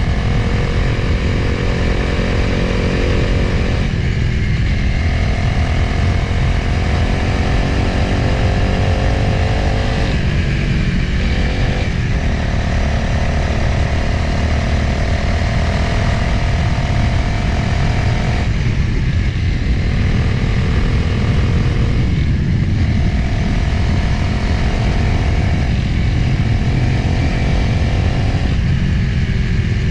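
Motorcycle engine running under way with heavy wind rumble on the microphone. The engine tone holds or slowly rises, then drops out briefly about five times.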